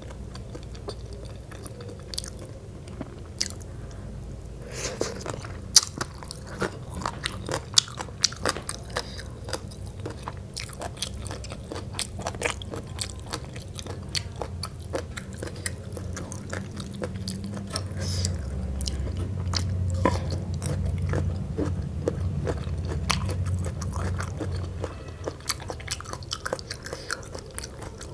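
Close-up eating sounds: chewing, biting and crunching of spicy Lao noodle salad and melon, with many sharp wet mouth clicks. A low hum swells for several seconds in the second half.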